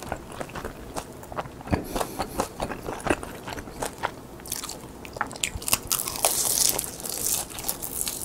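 Close-up crunching and chewing of crisp roasted seaweed (gim) sheets: many sharp, crisp crackles at an irregular pace, with a longer rustling stretch about six and a half seconds in.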